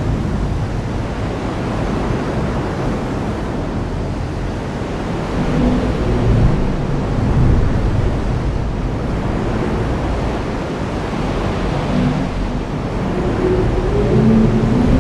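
Heavy rain falling steadily, a loud even hiss, with low rumbling that swells about six seconds in and again near the end.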